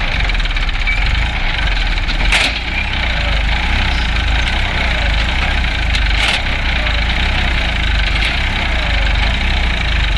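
Massey Ferguson 1035 tractor's three-cylinder diesel engine running steadily while hitched to a stuck water tanker, with two sharp knocks about two and six seconds in.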